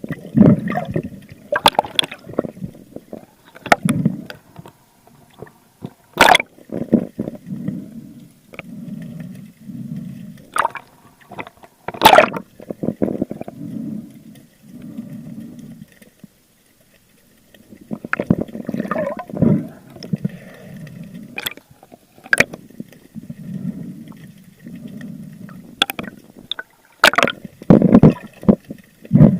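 Water sloshing and gurgling in repeated swells about a second apart, broken by sharp knocks and clicks, around a spearfisher's camera in the sea. It goes quiet for a moment about two-thirds of the way through.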